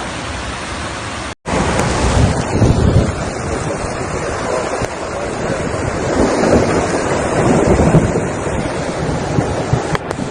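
Loud, steady rushing of floodwater, with wind buffeting the microphone. It cuts out for an instant about a second and a half in, then surges louder.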